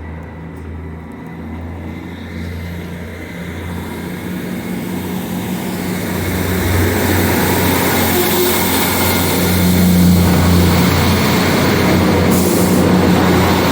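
Class 158 diesel multiple unit running past: a steady low engine drone with rushing wheel and rail noise that grows steadily louder over the first two-thirds, then holds loud near the end.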